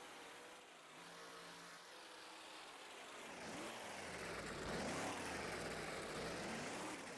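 Monster truck engine revving, its pitch rising and falling in repeated swells. It grows louder about four seconds in and stays loud almost to the end.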